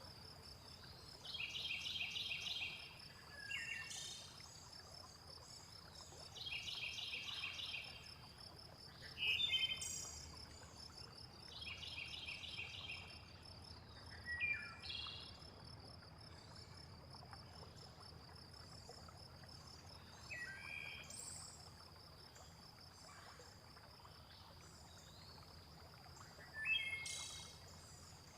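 Nature soundscape: a steady high insect trill runs under birds chirping, with a rapidly pulsed call repeating about every five seconds between short down-sliding chirps.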